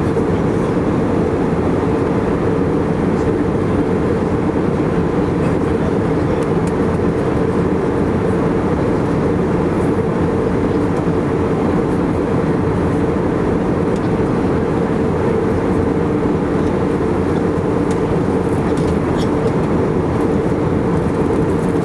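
Steady cabin drone of an Airbus A319-115 in flight, its CFM56 engines and the airflow giving an even, unbroken hum heard from a window seat inside the cabin.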